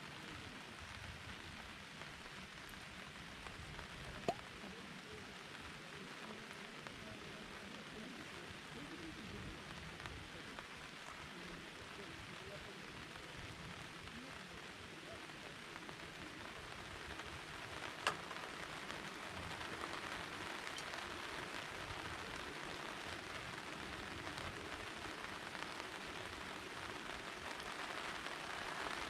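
Steady rain falling and pattering on surfaces, growing slightly louder in the second half, with two sharp single clicks, one about four seconds in and one about eighteen seconds in.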